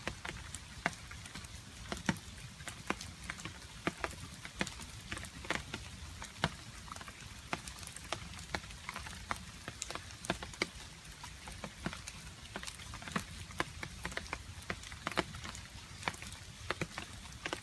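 Rain with water drops dripping irregularly, several sharp drips a second, over a faint steady low rumble.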